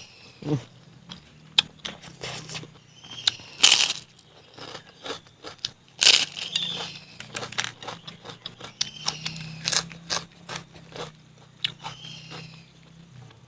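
Close-up mouth sounds of someone eating a pork and bamboo shoot dish: irregular crunching, biting and chewing with sharp clicks, the loudest about four and six seconds in.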